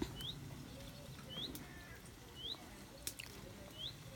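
A bird repeating a short, rising whistled call about once a second, like someone going "psst" to get attention. A few sharp clicks sound as well, the loudest right at the start.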